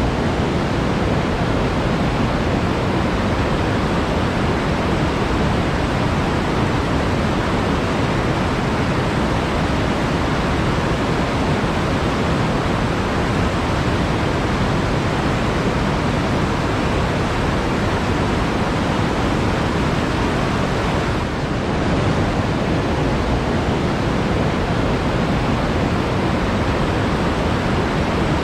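Flowing water rushing steadily, a dense even hiss without a break, with one brief slight dip in level about twenty-one seconds in.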